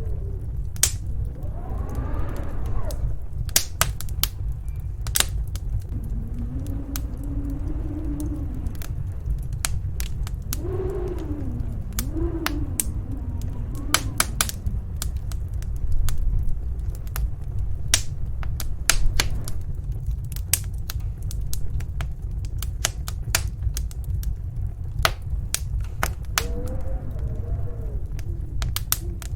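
Wood fire crackling with frequent sharp pops, over the steady low rumble of snowstorm wind. A few times the wind rises into gusts whose pitch wavers up and down.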